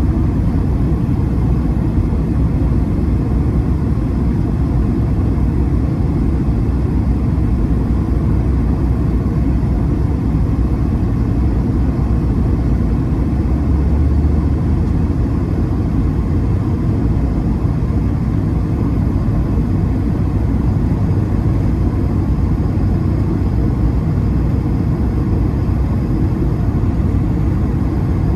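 Steady low rumble of engine and air noise in the passenger cabin of an Airbus A220-300 airliner, with a slight swell about halfway through.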